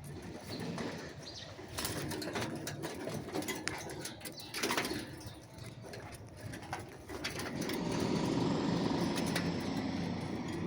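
Birds moving about and calling softly, with scattered scratches and knocks. About three quarters of the way in, a steady low hum comes up.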